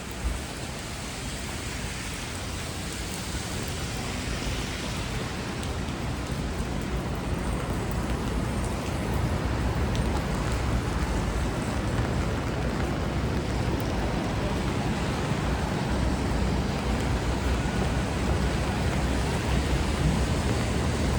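Steady rain with a low rumble of traffic on a wet city street, growing gradually louder.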